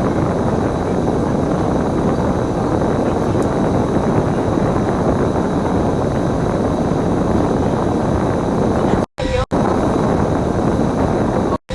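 Steady running noise of a bus in motion, engine and road noise mixed together. The sound cuts out to silence for a moment twice near the end.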